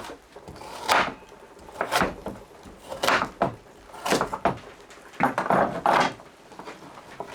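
Knife cutting vegetables on a wooden board, strokes about once a second, with a quicker run of cuts about five seconds in.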